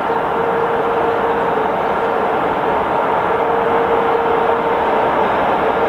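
2ES6 electric locomotive hauling a loaded freight train as it approaches: a steady running rumble with a steady whine over it.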